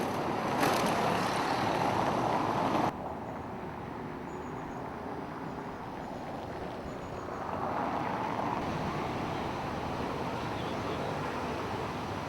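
Steady outdoor traffic noise, a rush of passing vehicles, which drops suddenly about three seconds in and swells again a few seconds later.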